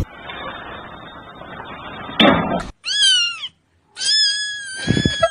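A cat meowing twice: a short meow that rises and falls about three seconds in, then a longer, level meow near the end. Before that, about two seconds of noisy hiss ending in a brief loud burst.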